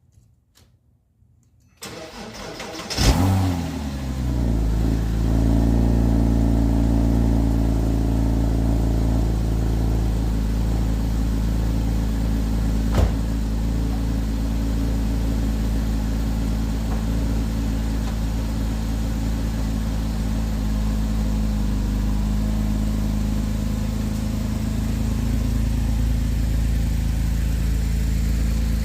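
Porsche Cayman 987.1's flat-six engine on a cold start: the starter cranks briefly, the engine catches about three seconds in with a short rev flare, then settles into a steady idle. A single sharp click about thirteen seconds in.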